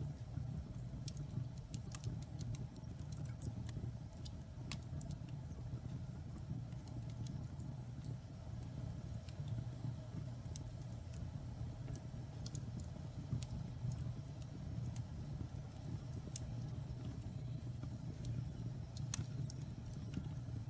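Wood fire burning in a fireplace: a steady low rumble of the flames with scattered sharp crackles and pops from the burning logs, one louder pop near the end.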